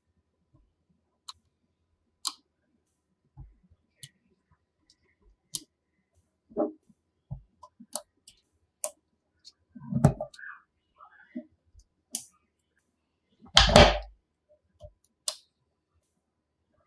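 Coloured magnetic building pieces clicking and clacking together as they are handled and snapped into place, in scattered single clicks. There is a heavier clatter about ten seconds in and the loudest one near fourteen seconds.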